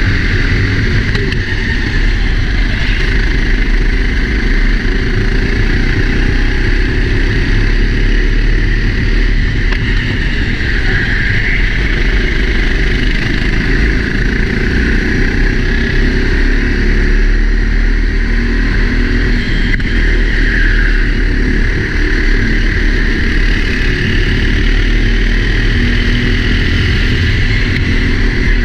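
Four-stroke Sodi racing kart engine running continuously under race load, heard onboard from a helmet camera. The pitch wavers slightly throughout.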